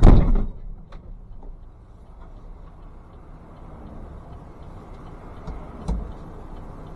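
A car crash heard from inside the car: one loud impact right at the start, dying away within half a second. Then a low, steady hum in the stopped car's cabin with a few faint knocks.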